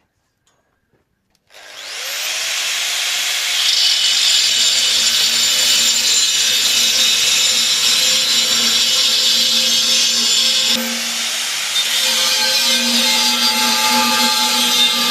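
Angle grinder starting up about a second and a half in, its pitch rising as it spins up, then running steadily while cutting into the steel of a gas cylinder. The tone of the cut changes once, about eleven seconds in.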